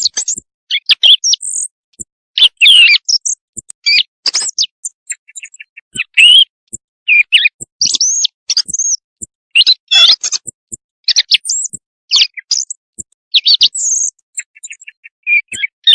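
Recorded song of a small bird, played loud as a night-time hunting call: a quick run of short, varied chirps and whistled phrases, each under a second, separated by brief gaps.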